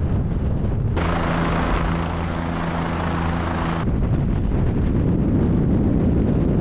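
Helicopter running: a noisy, rumbling rotor and engine sound that switches abruptly twice, about a second in and near four seconds, with a steady multi-toned hum in the middle stretch.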